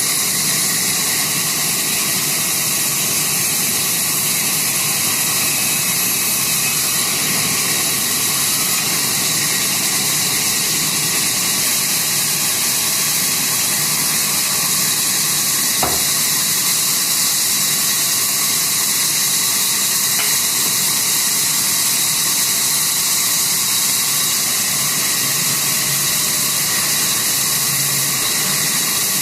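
Sawmill saw running steadily: a constant high hiss with a steady high whine, and a single sharp click about sixteen seconds in.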